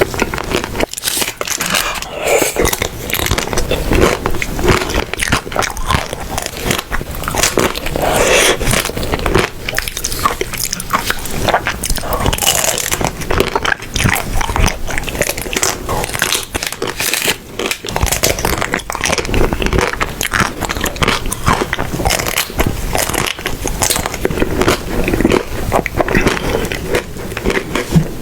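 Close-miked eating sounds: repeated crunchy bites and chewing, with dense irregular crackles throughout.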